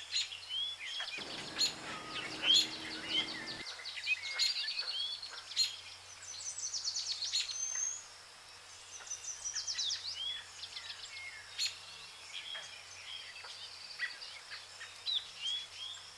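Several birds chirping and singing: short chirps, quick trills and rising whistled calls, some overlapping, over a faint low hum. A brief low rumble sounds for about two seconds near the start.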